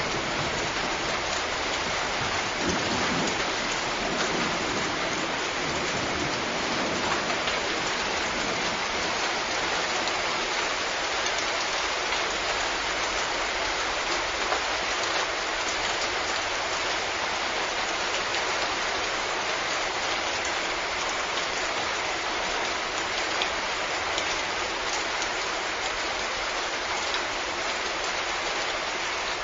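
Steady rain, an even hiss of falling drops. A low rumble of thunder dies away over the first few seconds.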